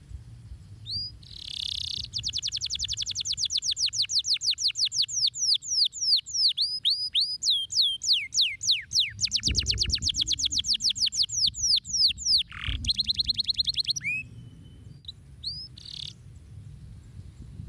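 Domestic canary singing a long song of rapid trills: quickly repeated sweeping notes that change pattern several times, starting about two seconds in and ending with a faster, buzzier trill, then a few single chirps. Two low thumps sound under the song in its second half.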